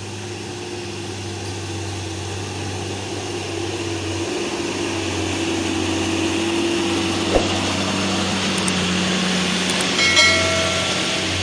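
Diesel engine of a loaded coal truck labouring up a long climb, growing steadily louder as it approaches. There is a sharp click about halfway through and a brief high-pitched tone near the end.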